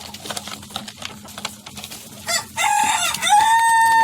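Rooster crowing, starting about two and a half seconds in: one long call that holds its pitch, then falls away at the end. Light scattered clicks come before it.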